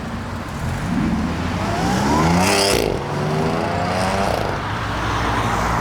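A car engine revving hard as the car accelerates away, climbing in pitch, then a brief hiss and break about halfway through as it shifts gear, then climbing again in the next gear.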